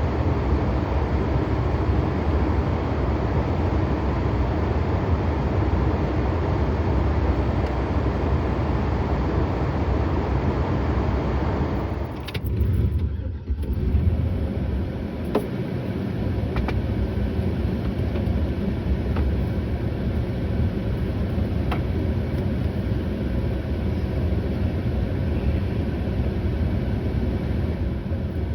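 A vehicle engine running steadily, heavy in the low end, with a brief dip and change in the sound about twelve seconds in.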